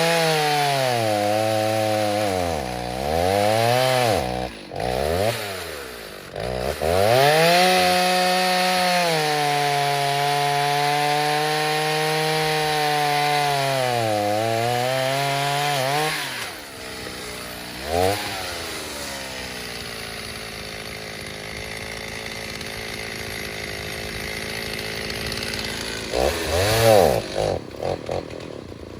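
Rebuilt Stihl 029 two-stroke chainsaw with a 45 mm cylinder, held at full throttle and cutting wood, its pitch sagging and recovering as the chain loads up in the cut. About sixteen seconds in it drops to idle, with one quick rev a couple of seconds later and a few short revs near the end.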